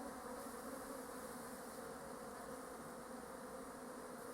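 Honeybees buzzing steadily over the frames of an opened hive, a low even hum that does not let up.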